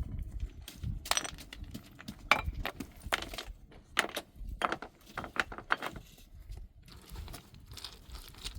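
Irregular sharp knocks and clinks of hard objects striking one another, about a dozen spread unevenly, with quieter stretches in between.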